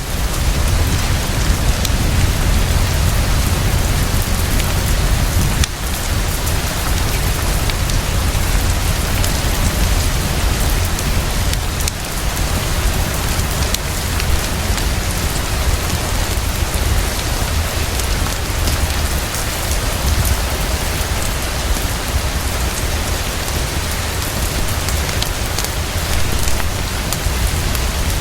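Heavy, steady rainfall, a dense even hiss with a deep low rumble underneath.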